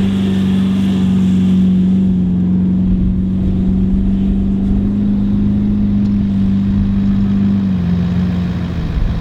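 A 4x4's engine droning steadily under load while driving on sand, with a rushing noise over it; the engine note rises slightly about halfway through and drops a little near the end.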